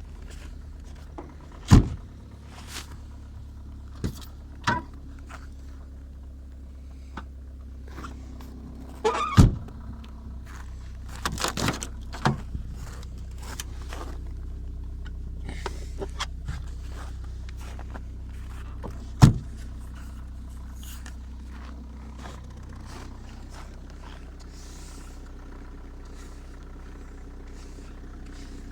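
Opel Meriva 1.7 CDTI diesel engine idling steadily on a cold start at about −19 °C. Several sharp thunks and clicks sound over it, the loudest about two seconds in, near the ten-second mark and two-thirds through.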